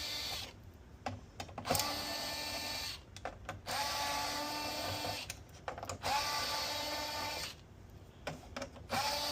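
Electric screwdriver backing screws out of a PS5 casing, its motor whining in runs of about a second and a half, four times, with short pauses between.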